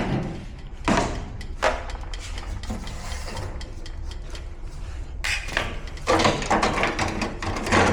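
Clatter and knocks of tools and metal parts being handled during the teardown of a front-load washing machine. A run of short knocks comes about a second in, and busier clattering starts about five seconds in, over a steady low hum.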